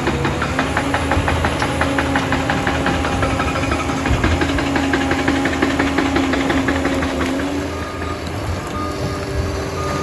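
Liebherr 746 crawler dozer's diesel engine working under load, a steady drone with a fast, regular clatter over it; it eases off about eight seconds in.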